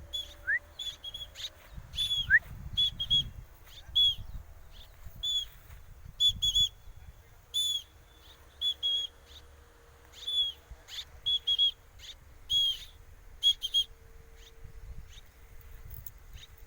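Short, high whistled notes in quick pairs and threes, repeating about once a second, with two brief rising whistles near the start.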